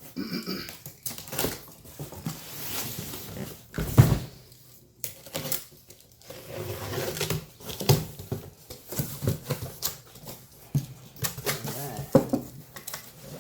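Cardboard boxes and packaging being handled and shifted: irregular knocks, scrapes and rustling, with one sharp knock about four seconds in.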